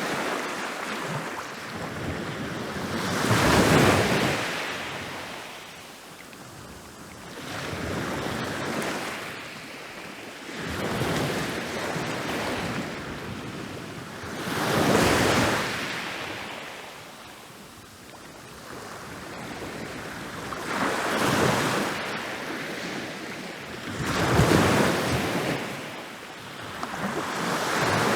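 Ocean waves rolling in and breaking on a beach. Each wave swells into a rushing crash and then washes back, one every three to six seconds, about seven in all.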